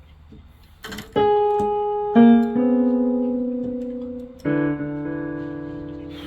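Piano keys struck a few at a time, with no tune: a knock, then about four separate notes and clusters, each left to ring and die away.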